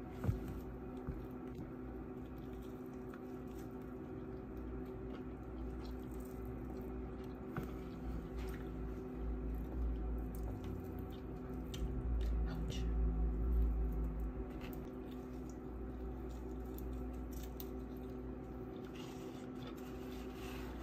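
Someone eating a baked lemon pepper chicken wing: soft chewing with small mouth clicks and smacks, over a steady background hum, with a low rumble swelling about twelve seconds in.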